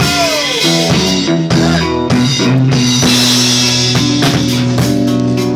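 Rock band playing in rehearsal: drum kit, electric guitar and bass together, with a note sliding down in pitch in the first second.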